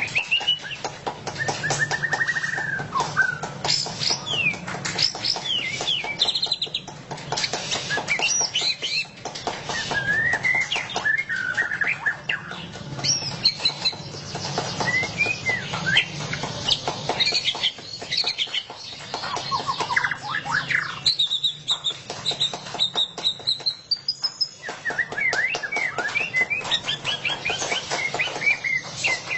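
White-rumped shama (murai batu) singing without pause: a fast, varied run of whistled notes and sweeping glides, broken by rapid chattering trills in the 'ngeriwik' style. A steady low hum sits underneath.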